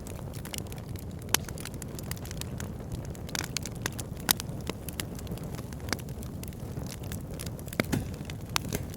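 Wood fire burning in a fireplace: a steady low rumble of flames with scattered sharp crackles and pops, the loudest a little over a second in, about four seconds in and near the end.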